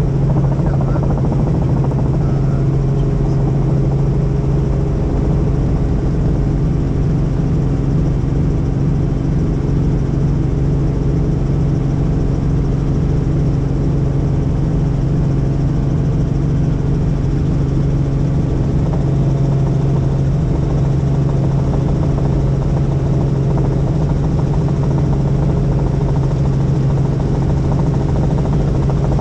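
Helicopter in flight: a loud, steady drone of rotor and engine, with a constant low hum that does not change.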